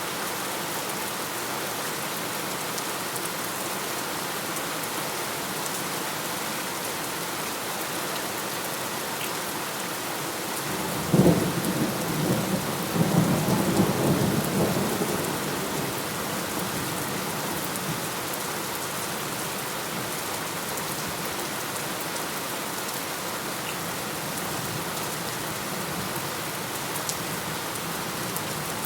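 Steady heavy rain falling, with a thunderclap about eleven seconds in: a sharp crack followed by a rolling rumble that dies away over about five seconds.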